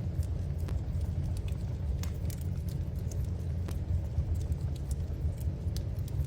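Wood fire in a fireplace crackling, with a dozen or so scattered sharp pops and snaps at irregular moments over a steady low rumble.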